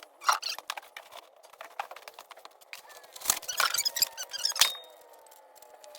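Hands working on a lawnmower wheel and its metal parts: scattered light clicks and metallic clinks, a busy cluster of clinks a little past halfway, and a sharp knock soon after.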